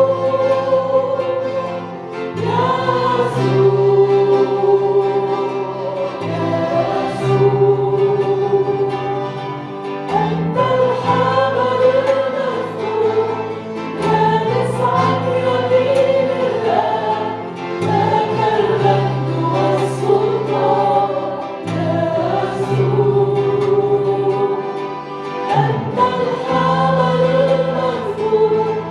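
A congregation singing a worship song together, over instrumental accompaniment with sustained low chords that change every couple of seconds.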